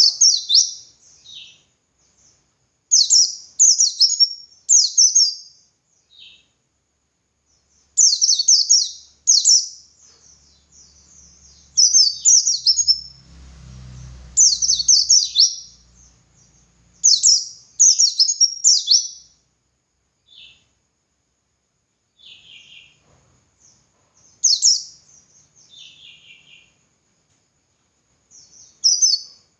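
White-eye (pleci) singing loud, rapid, high-pitched twittering phrases, each about a second long, repeated with short pauses between them. A faint low rumble is heard about halfway through.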